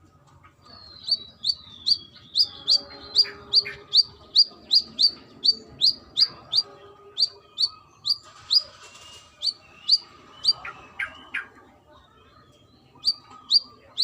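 Brown-throated sunbird singing a rapid string of sharp, high, down-slurred notes, about two or three a second, in the fast continuous 'trotol' song. It breaks off briefly after about eleven seconds and starts again near the end.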